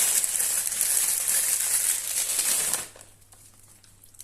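Crinkly plastic food packet being handled and rustled, a dense crackling rustle that stops abruptly about three seconds in.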